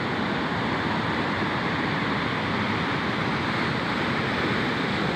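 Sea surf washing against the shore, a steady rushing noise.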